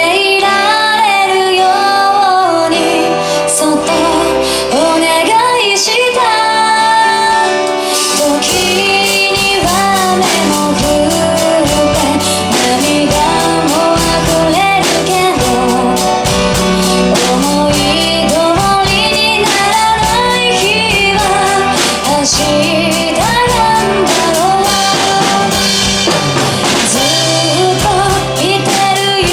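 Japanese pop ballad with a female lead vocal over band backing; a drum kit comes in about eight seconds in and plays a steady beat under the singing.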